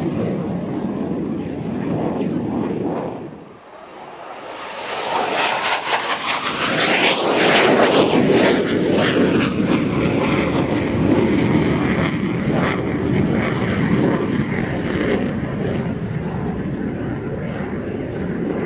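Aircraft engine roar as a plane passes close by. It builds to its loudest about seven to eight seconds in, with a whine that falls in pitch as it goes past, then stays loud and slowly eases off.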